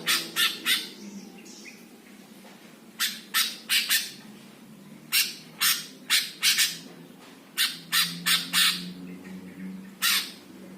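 Cucak hijau (greater green leafbird) giving harsh, rasping calls in quick clusters of two to four, with short pauses between clusters.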